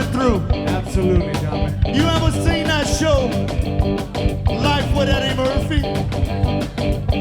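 A band playing music: guitar and a steady drum beat under a singing voice or lead line that bends in pitch.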